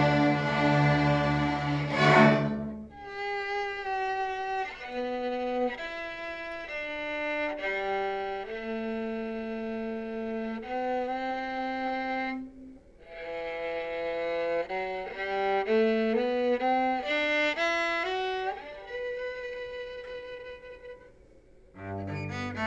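A string ensemble plays a full chord for the first couple of seconds, then a single violin plays a melody alone, note by note. The violin stops briefly about halfway and holds one long note near the end, and the low strings come back in right at the end.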